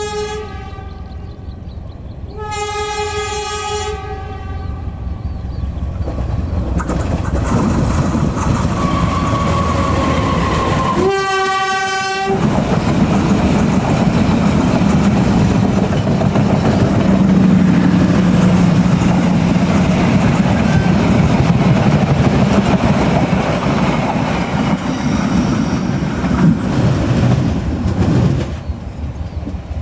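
Diesel locomotive horn blown three times: a short toot, a blast of about a second and a half, then another of about a second. These are followed by the loud, building rumble of a train running close by, with wheels clacking over the rail joints, which drops away near the end.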